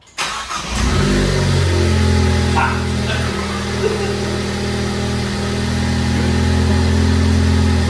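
Ford Focus ST's turbocharged 2.0-litre EcoBoost four-cylinder starting up, its pitch rising briefly as it catches, then settling into a steady idle.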